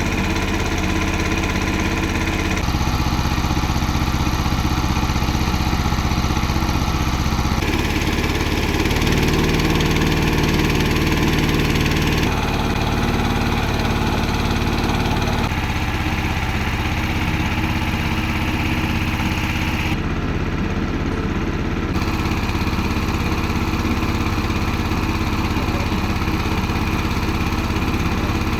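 A boat's motor running steadily, its tone shifting abruptly several times.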